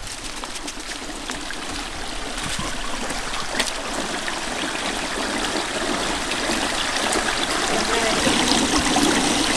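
Water trickling and running down a small garden water feature, growing steadily louder.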